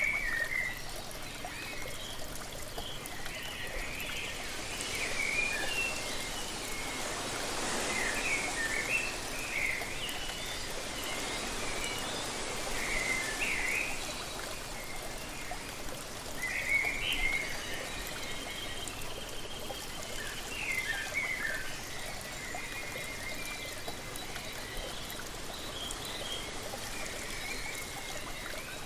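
Waterfall water rushing steadily, with small birds chirping and twittering in short bursts throughout. About a fifth of the way in, the rush swells for several seconds, like a gust of wind.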